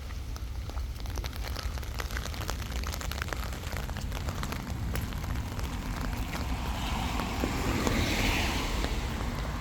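Wind rumbling on the microphone during an outdoor walk, with a car going by near the end, its tyre hiss swelling for a couple of seconds.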